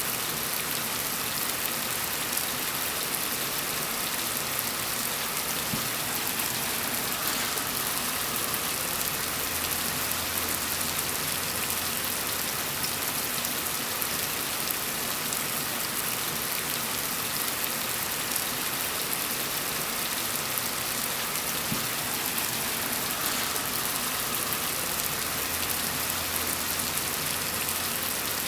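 Steady rain falling on a surface, an even hiss of many drops. A faint low hum sits beneath it for long stretches.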